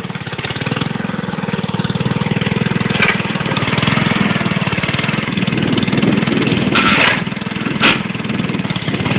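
Tractor engine running hard under load, its fast even firing steady and growing a little louder after the first second, with a few short sharp knocks about three, seven and eight seconds in.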